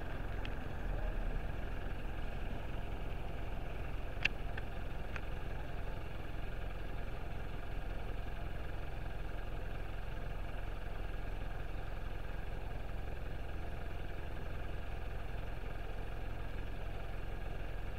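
Steady low hum of road vehicles idling, with a single sharp click about four seconds in.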